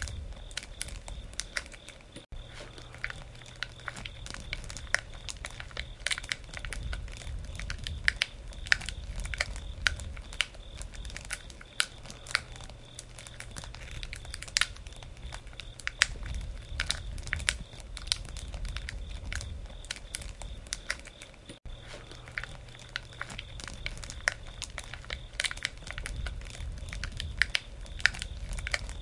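Campfire wood burning, with frequent irregular sharp crackles and pops over a low rumble of the flames that swells and fades.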